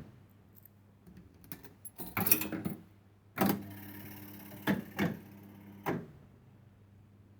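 Electromechanical 1970s penny-play fruit machine being played: a series of sharp mechanical clunks and clicks from about two seconds in, roughly five in all, over a steady low hum.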